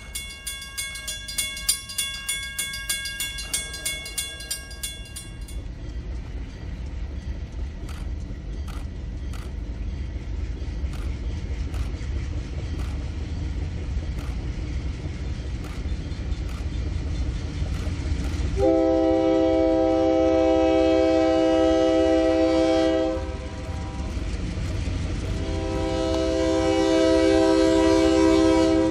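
Six-axle MLW diesel locomotive approaching with a steady low engine rumble that grows louder, wheels clicking over the rails, and two long air-horn blasts, the second running to the end. A bell rings rapidly for the first five seconds.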